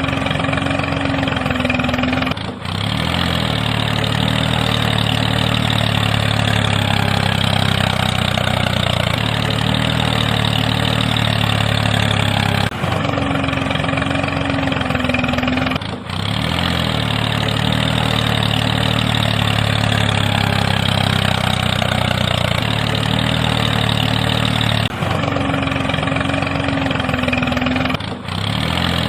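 Tractor engine idling steadily. The sound repeats almost exactly about every twelve seconds, as a looped recording does.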